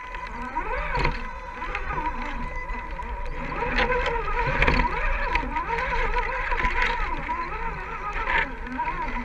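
Electric motor and geared drivetrain of an RC rock crawler whining, the pitch rising and falling over and over as the throttle is worked, with scattered clicks.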